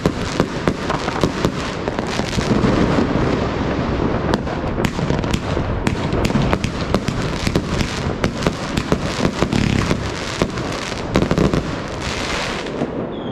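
Evolution Fireworks Snowstorm 2.0 compound cake firing: a dense, continuous crackling with many sharp pops.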